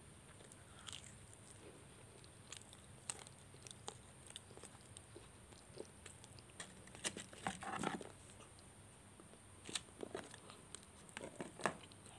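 Crispy fried chicken being bitten and chewed close to the microphone: irregular crunches and mouth clicks, loudest about seven to eight seconds in and again from about ten seconds to near the end.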